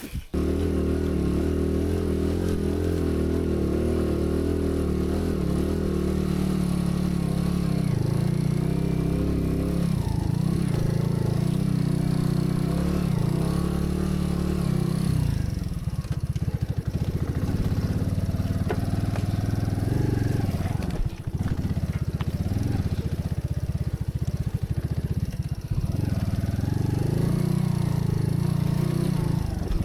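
Small motor vehicle engine running, steady for about the first half, then rising and falling in pitch from about halfway through as the throttle or load changes.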